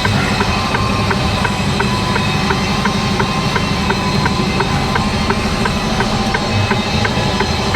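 Lorry's diesel engine running, heard from inside the cab, with the turn indicator ticking steadily about one and a half times a second as the truck turns right.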